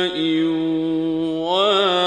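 A male Quran reciter's voice holds a long chanted note on the drawn-out vowel of "bi-mā'in", the obligatory elongated madd of tajweed recitation. The note steps down in pitch at the start, stays steady, then rises into a wavering melodic ornament about a second and a half in.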